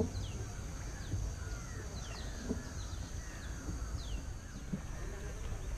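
Birds calling from a forested lakeshore: short, high, falling whistles about once a second, mixed with lower warbling calls, over a steady high-pitched hum and a low rumble.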